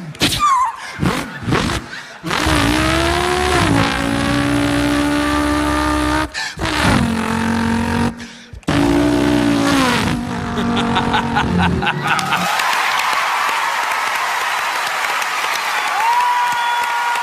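Human voice imitating a racing car: engine revs that climb and hold, broken by short gaps like gear changes, then a rapid crackle and a long hissing tyre screech, with a steady whistle near the end.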